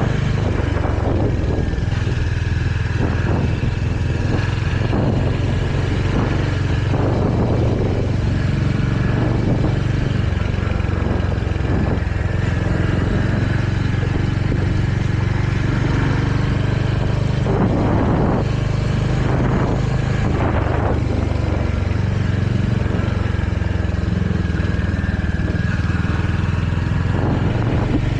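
Royal Enfield Hunter 350's single-cylinder engine running steadily under way, heard from the rider's position. A few brief rushes of noise come and go about two-thirds of the way through.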